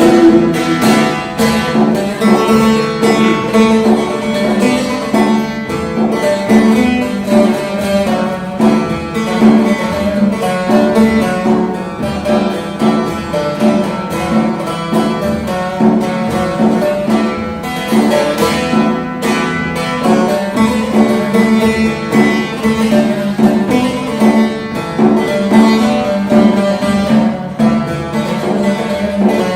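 Instrumental interlude of a Turkish folk song: a plucked string instrument plays a quick running melody over a steady low drone-like accompaniment, with no singing.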